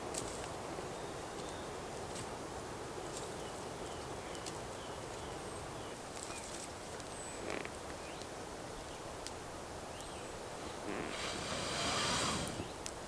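Quiet woodland ambience with faint, short, high bird chirps and scattered small clicks and ticks. Near the end comes a louder rustling scrape lasting about a second and a half.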